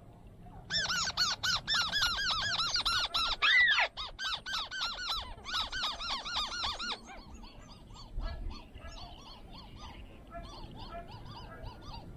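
Bird calls: a rapid run of short rising-and-falling notes, loud from about a second in until about seven seconds, with a brief break in the middle, then carrying on more faintly.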